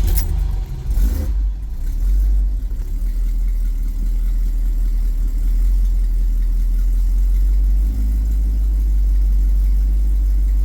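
1971 Mustang's 351 Cleveland V8, breathing through an aftermarket Holley carburetor with no choke hooked up, cold-starting: it catches and runs unevenly for about two seconds, then settles into a steady idle through side pipes.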